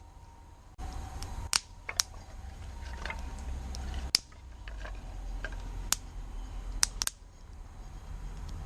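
Wood campfire crackling: sharp, irregular pops from the burning wood, about six in all, over a low steady hiss.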